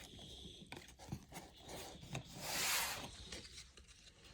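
Baseball trading cards rubbing and sliding against each other as they are handled, with small ticks and one louder swish about two and a half seconds in.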